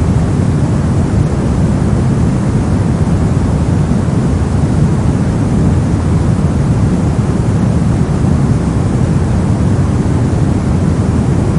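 Steady synthetic soft noise, a deep, even hiss weighted toward the low end, like brown or pink noise, with no changes or events.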